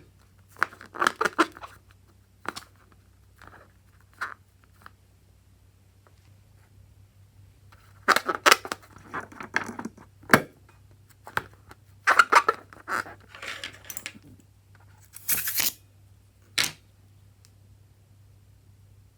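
Several short clusters of crisp snipping and crackling handling sounds with quiet gaps between, over a faint steady low hum.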